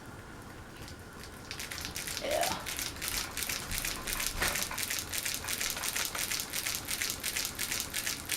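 Harbor Breeze Vector Elite ceiling fan running with a fast, regular ticking crinkle, several ticks a second, that starts about a second and a half in: the tape on the fan's light kit rattling as it turns. A short rising squeak comes once near the start of the ticking.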